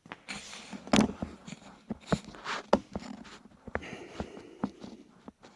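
Irregular knocks, clicks and scrapes of metal parts being handled and worked by hand on a workbench, the loudest knock about a second in.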